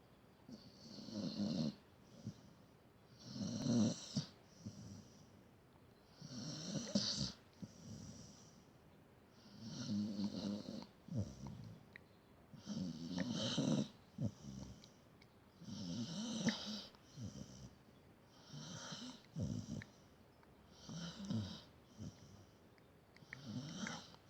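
A sleeping dog snoring in a steady rhythm, about nine snoring breaths, one every two to three seconds. Each breath is a louder snore followed by a softer one.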